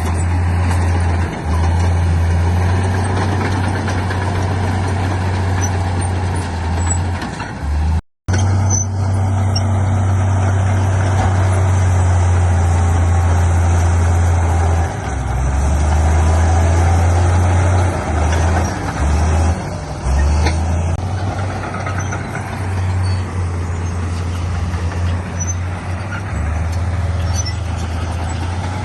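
Heavy diesel earthmoving machinery, a bulldozer and dump trucks, running and working steadily with a deep, continuous engine drone. The sound drops out for an instant about eight seconds in.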